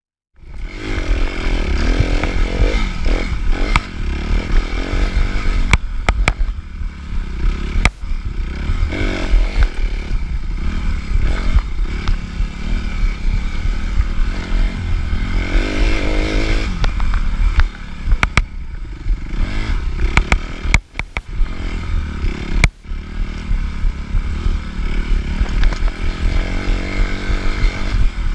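Suzuki RM-Z250 dirt bike's four-stroke single-cylinder engine revving up and down under a rider during an off-road race, with clatter and knocks from the bike over rough ground. The throttle drops off briefly a few times, and the sound starts abruptly after silence.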